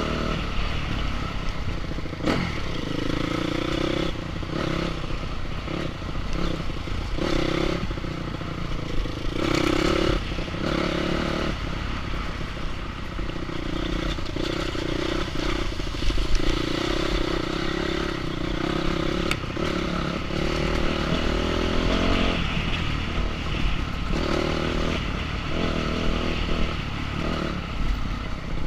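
Enduro motorcycle engine revving up and down as it rides off-road, with frequent knocks and rattles.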